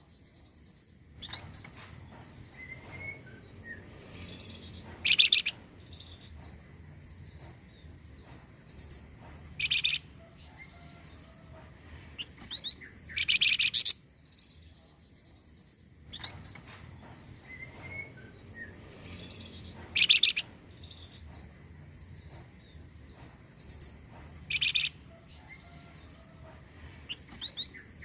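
Flamboyan songbird calling: a loud, harsh high call every four seconds or so, with softer chirps and short whistles in between. It is a lure recording played to stir a flamboyan bird into singing, and the sequence repeats about halfway through, as a loop.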